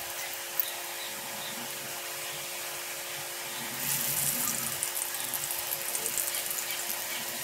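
Dahi vadas, balls of urad and moong dal batter, deep-frying in hot oil in a kadhai: a steady sizzle with fine crackling that grows louder and busier about four seconds in.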